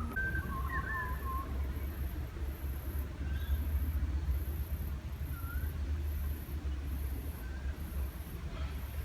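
A few short chirping bird calls, clearest in the first second or two and fainter later, over a steady low hum, with a faint regular high-pitched pulsing, like insects, about twice a second.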